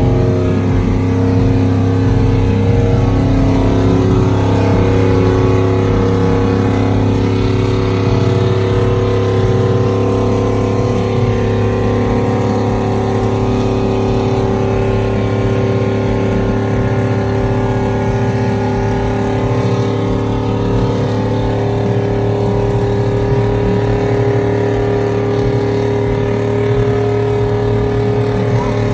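A truck engine running at a steady speed, its deep drone holding one even pitch without revving.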